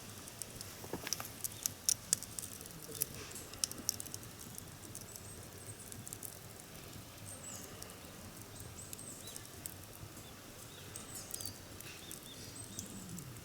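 Wood fire crackling in a fire pit: irregular sharp pops and snaps, thickest in the first few seconds, over a low steady background. Faint high chirps sound now and then.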